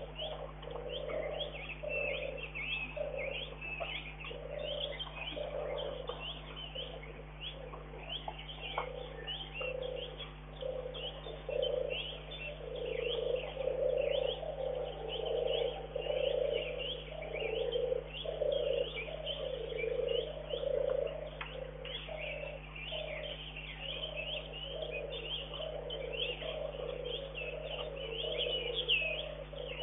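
Wild birds: many high, quick chirps overlapping, with a lower call repeated roughly once a second throughout, over a faint steady electrical hum.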